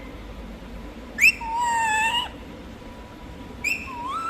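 Pet parrot calling in a whistle-like voice: a sharp rising note about a second in runs into a held whistled tone for about a second, and another rising note comes near the end.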